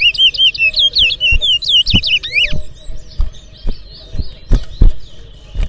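Towa-towa (chestnut-bellied seed finch) singing a fast run of clear whistled notes that ends about two and a half seconds in, followed by fainter twittering. Sharp knocks sound throughout, the loudest near the end.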